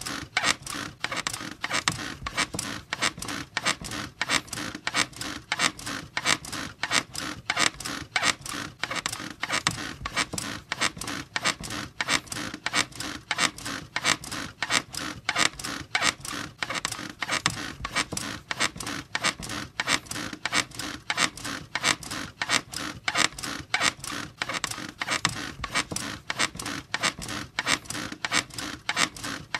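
A bed squeaking over and over in a steady, even rhythm, as if someone is rocking or bouncing on it.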